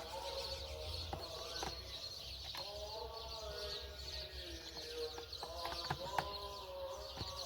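Birds calling in a series of short pitched calls over a steady high-pitched hiss, with a few sharp clicks.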